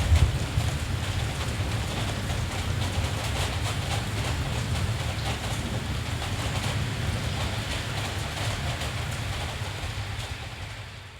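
Steady rain hiss over a continuous low rumble, fading down near the end.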